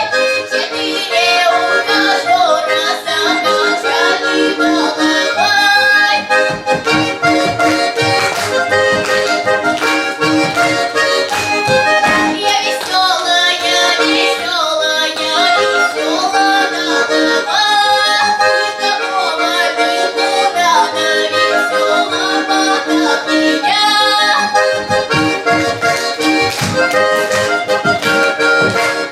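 Accordion playing a melody over sustained chords without a break.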